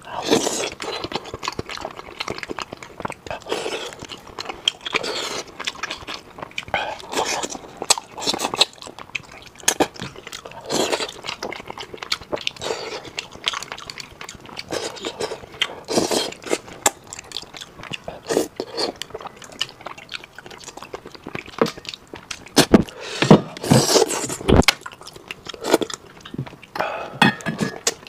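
Close-miked mukbang eating: wet chewing and lip-smacking through a mouthful of spicy fish and enoki mushrooms, picked up by a clip-on microphone on the eater's shirt. A few sharper knocks come about three-quarters of the way through.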